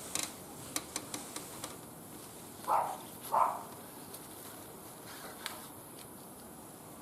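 Wood fire crackling in a barbecue grill, with scattered sharp pops, most of them in the first couple of seconds. Two short louder sounds about half a second apart near the middle.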